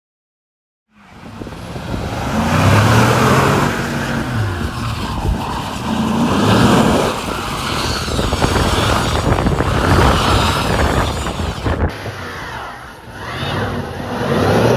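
Road traffic: cars driving by, engine and tyre noise swelling and fading as they pass. It starts abruptly about a second in, and the sound changes suddenly near the end.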